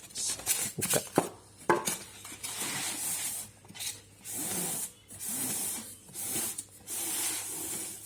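Packaging being opened and pulled off a boxed soundbar: a few sharp clicks, then rubbing and rustling strokes about once a second.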